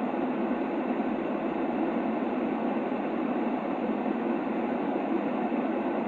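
Steady white-noise track for a baby's sleep: an unbroken, muffled hiss that is heaviest in the low-middle range and has little high hiss. It does not change.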